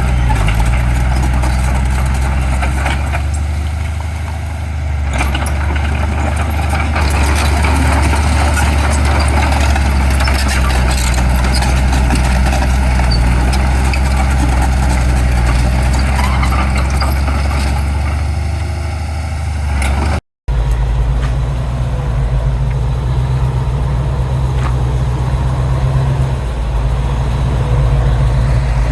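Heavy diesel earthmoving machinery running steadily, with dense clattering and rattling over the engine for the first twenty seconds. After a brief dropout about twenty seconds in, a diesel engine runs on steadily at a slightly different pitch.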